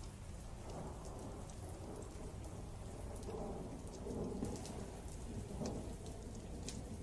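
Rain ambience with rolling thunder: a steady deep rumble that swells and peaks a few seconds in, over scattered sharp raindrop ticks.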